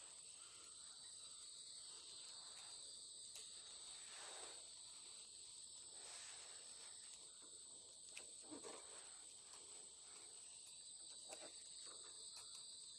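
Faint, steady chirring of crickets or similar night insects, with one high-pitched band above another lower one, and a few faint clicks scattered through.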